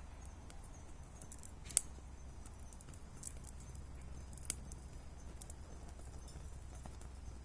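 Wood fire crackling: scattered small snaps and pops over a low steady rumble, with a louder pop about two seconds in and another just past the middle.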